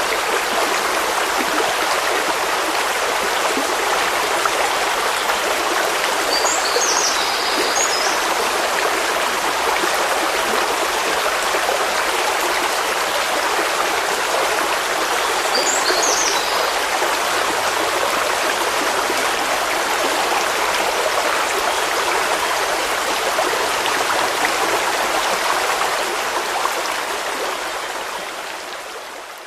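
Flowing stream water, a steady rushing babble, with two brief high chirps about seven and sixteen seconds in. The water fades out over the last few seconds.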